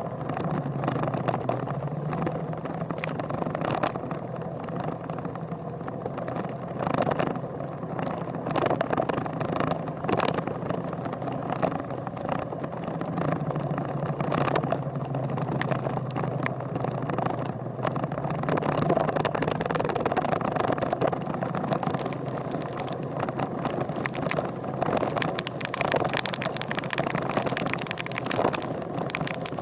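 A vehicle engine running at steady speed, its tone rising and falling a little, over constant road and wind noise with scattered small knocks and rattles.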